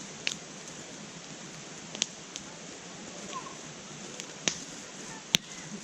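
Wood campfire crackling: a steady hiss with scattered sharp pops, the loudest near the end.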